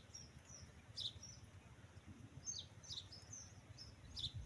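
Small birds chirping faintly: short, high, downward-sliding calls repeated every half second to a second, over a low rumble.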